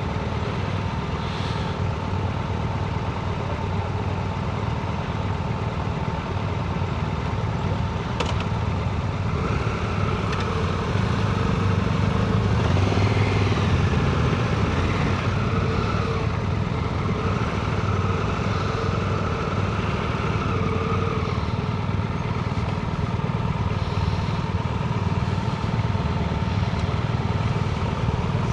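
Motor vehicle engines running steadily, with a louder passage from about ten to twenty seconds in as a vehicle goes by.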